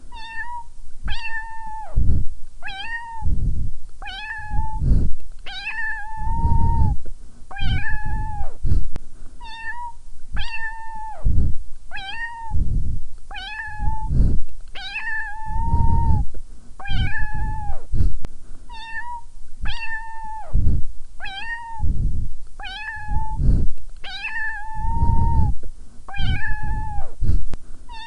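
Domestic cat meowing over and over, about one meow a second. Each meow holds a steady pitch and drops at its end, and a few are drawn out longer.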